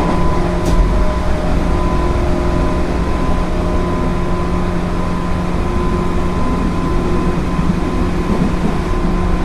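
JR 205 series 0-subseries electric train running at a steady speed: rumble of wheels on rail with several steady humming tones, and one short knock about a second in.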